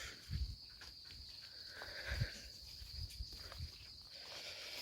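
Crickets chirring in a steady high drone, with a few soft low thumps about half a second and two seconds in.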